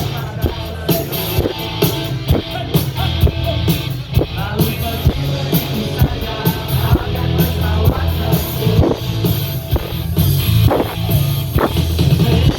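Live rock band playing through a loud PA: a drum kit keeps a steady beat over heavy bass and guitar.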